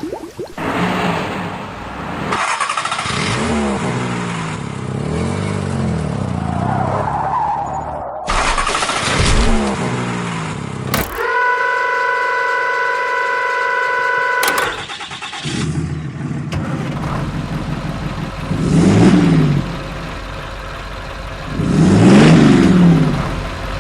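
A series of vehicle engine sounds cut one after another, revving up and down, with a steady multi-note horn held for about three seconds in the middle.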